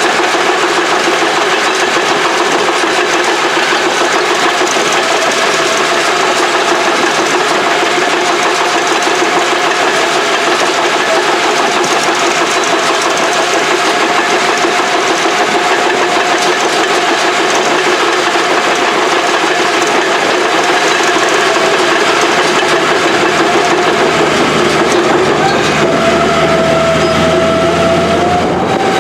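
Engine of old Caterpillar heavy equipment running steadily with a held whine. The pitch drops slightly about 26 seconds in and rises again near the end.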